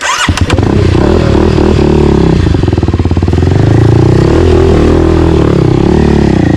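Single-cylinder four-stroke dirt bike engine running close by: it revs up sharply at the start, then runs on with its pitch wavering up and down under the throttle.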